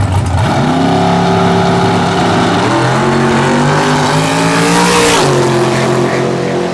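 Drag-racing car making a pass at full throttle, the engine climbing in pitch and dropping back at two upshifts, about two and a half seconds in and about five seconds in.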